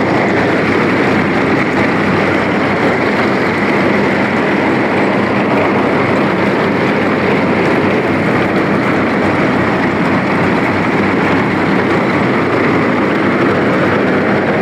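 Farmall M tractor's four-cylinder engine running steadily with the mounted corn picker engaged and driven, the picker's mechanism adding a loud, dense mechanical noise over the engine's hum. The picker is turning freely: it is not seized.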